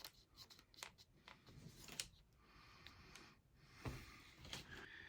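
Faint rubbing of a rag wiping excess glue off a fishing rod handle, with a few small handling clicks.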